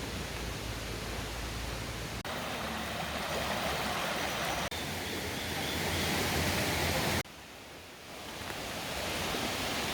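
Mountain stream water rushing steadily, in short clips cut together: the sound changes abruptly about two, four and a half and seven seconds in, dropping quieter after the last cut and building back up.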